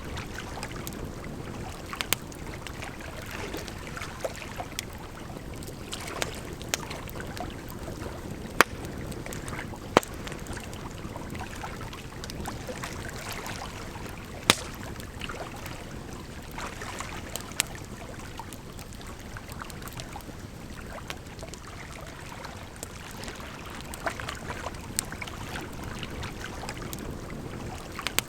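Campfire crackling, with sharp irregular pops, a few of them loud, over a steady rush of flowing water.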